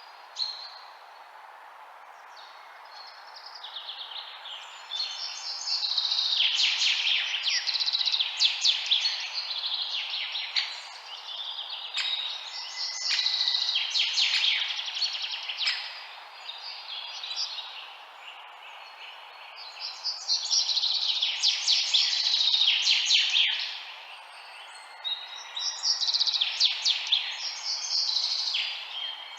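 Songbirds chirping in bouts of rapid trills a few seconds long, with short pauses between, over a steady background hiss.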